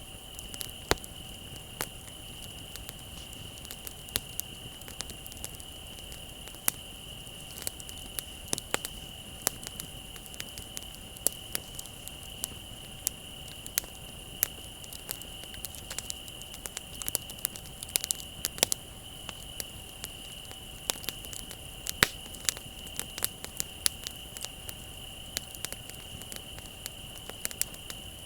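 Wood bonfire crackling with irregular sharp pops, over a steady, unbroken trill of crickets.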